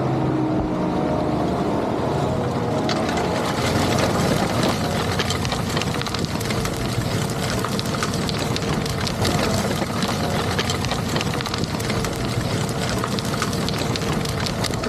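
Fendt 1050 Vario tractor's diesel engine running steadily under load while pulling a Väderstad TopDown cultivator, with many small ticks and rattles over the steady noise.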